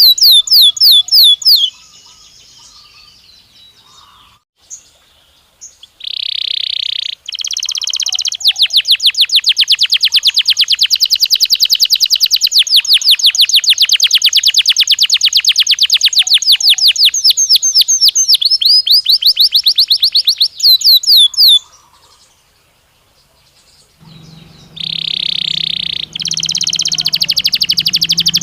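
Belgian canary singing: long rapid trills of quickly repeated falling notes, broken by a few pauses, with a held buzzy roll twice, about six seconds in and near the end.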